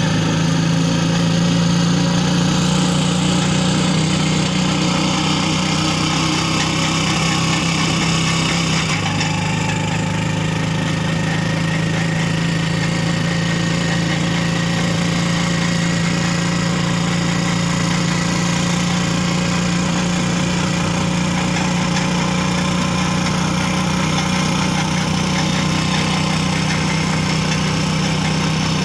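A vehicle's engine running steadily on the move, with a steady hiss over it; the low engine note shifts slightly about nine seconds in.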